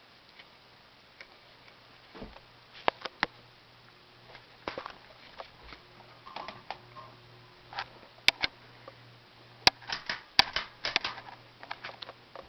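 Heritage Lancaster ceiling fan motor humming steadily at a low pitch, with irregular sharp clicks and ticks over it, several of them in quick clusters.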